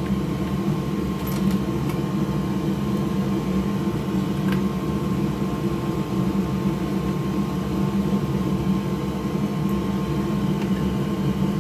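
Steady mechanical whir of a fan, with a constant hum and a couple of faint ticks.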